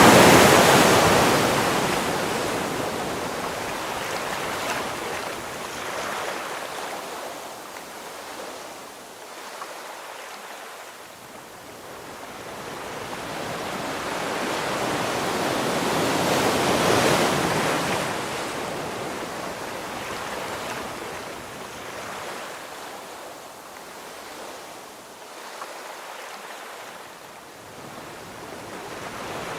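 Ocean waves breaking on a shore: one wave crashes right at the start and another swells and breaks about halfway through, each hiss of surf rising and then fading as the water washes back.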